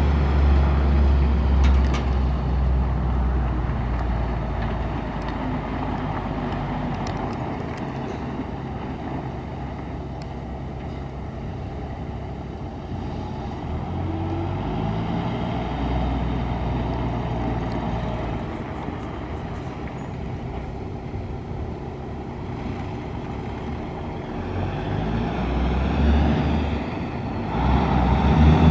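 1985 International S2600 dump truck's engine running, its pitch rising and falling several times and getting louder near the end.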